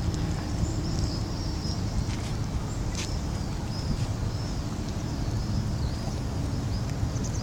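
Outdoor ambience: a steady low rumble of wind on the microphone, with a thin, high, wavering chirp running throughout and two brief clicks about two and three seconds in.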